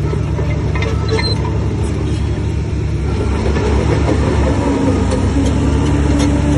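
Heavy diesel engine of earthmoving machinery running steadily, its pitch and level rising slightly about four to five seconds in as it takes on more load, with a few faint clanks.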